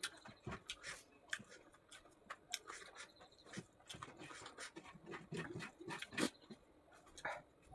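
A person eating pork up close: irregular, wet chewing and lip-smacking sounds, a quick run of short clicks and smacks.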